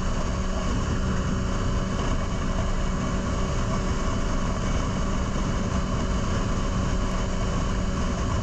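Kawasaki ZX-6R motorcycle engine holding a steady note at cruising speed, with heavy wind rush on the helmet-mounted camera's microphone.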